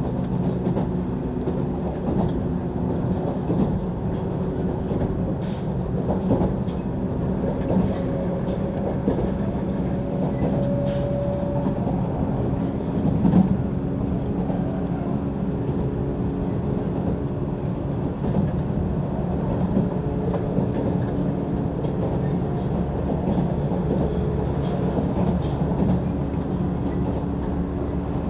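Running noise of a JR East 185 series electric train heard from inside the passenger car: a steady rumble with a humming drone from the running gear, and occasional sharp clicks of the wheels over the rails.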